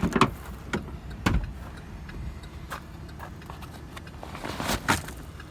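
A few sharp knocks and clanks over a steady low rumble, with a cluster in the first second and a half and another near the end.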